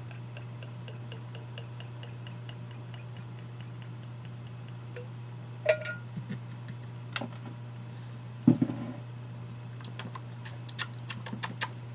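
Bottle and glass being handled on a table: scattered clicks and knocks, the loudest about two-thirds of the way through, and a run of quick light clicks near the end. Faint regular ticking in the first few seconds over a steady low hum.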